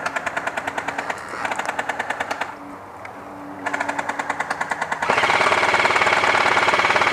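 Airsoft guns firing rapid full-auto bursts. There is a short pause about two and a half seconds in, and a louder, denser burst in the last two seconds.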